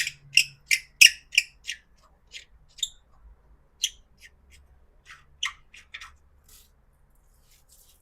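Hand-tool work on a car's steel body parts: a string of short, high, squeaky metal clicks, about three a second at first, then sparser and stopping about two seconds before the end.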